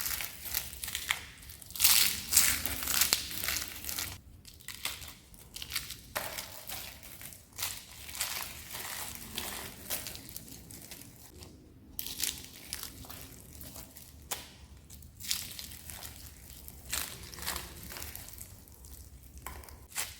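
Crispy soap being crushed and crunched: dense, irregular crackling crunches, loudest in the first few seconds, with a few brief pauses.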